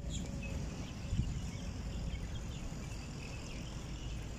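Small birds chirping in the trees, many short high chirps, over a steady low rumble of wind on the microphone.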